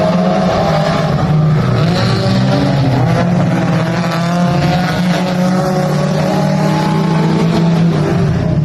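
Mini stock race car engines running hard under green on a dirt track, their pitch rising and falling with throttle.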